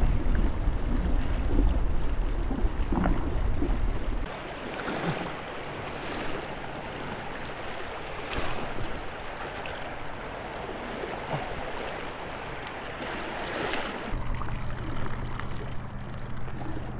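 Wind buffeting the microphone for about the first four seconds. Then quieter water noise around a small boat, with a steady low hum that gets louder near the end.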